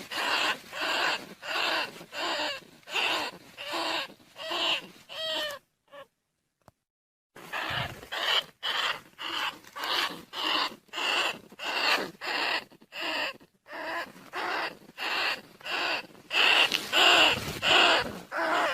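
Rat decoy call for rice-field rats and bandicoot rats: rapid squeaking calls repeated about twice a second, with a short break about six seconds in before the calls start again.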